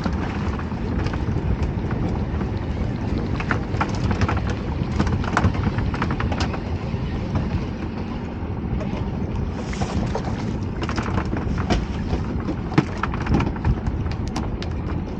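Wind buffeting the microphone on a small open boat, a steady low rumble, with scattered sharp clicks and knocks throughout.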